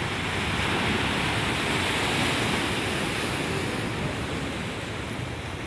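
Steady rushing noise of sea and wind.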